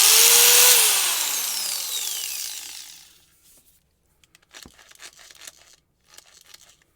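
Warrior 4-1/2 inch corded angle grinder switched on, running at full speed for under a second, then switched off and winding down, its whine falling in pitch and fading over about two seconds. Faint clicks and handling follow.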